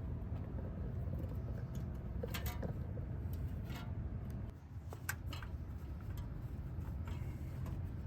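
A few short, light clicks and clinks as new exhaust parts and gaskets are handled, over a steady low hum.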